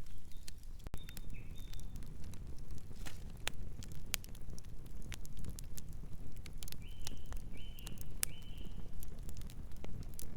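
Campfire burning: irregular sharp crackles and pops over a low steady rumble. Near the end come three short high-pitched tones in quick succession.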